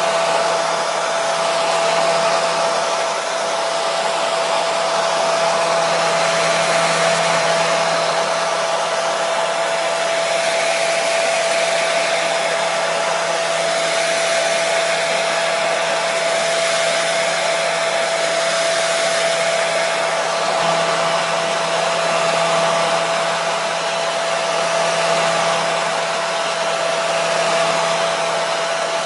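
Hair dryer running steadily: an even rushing blow of air with a steady motor whine, used as white noise.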